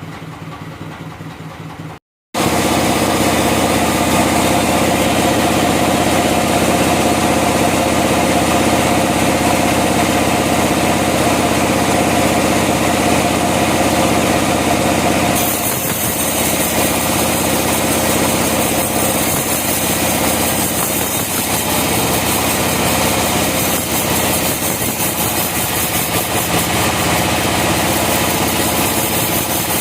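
A sawmill's engine running steadily and loudly. The sound drops out briefly about two seconds in, and its tone shifts and brightens about halfway through.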